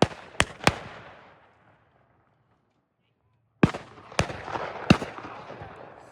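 Shotguns firing: three shots in quick succession, a pause, then three more, each trailing off in an echo.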